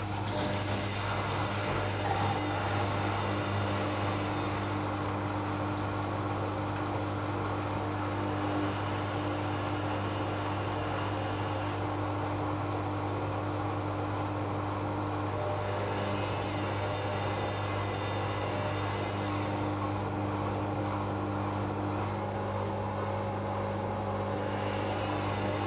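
Arçelik 5900E washing machine (Bauknecht-built, 1400 rpm max) in its spin after the second rinse: drum and motor running at a steady speed, an even hum with a steady whine over it.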